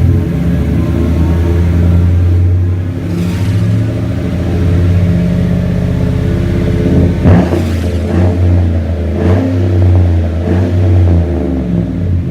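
A 2014 Chevrolet Silverado's 5.3-litre V8 running through a Flowmaster 40 Series muffler (one inlet, two outlets) and dual exhaust, with a steady throaty rumble. From about seven seconds in it is revved in about four short blips.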